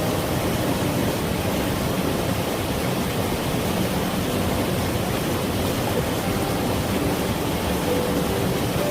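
Mountain valley stream water rushing steadily, a continuous even wash of flowing water.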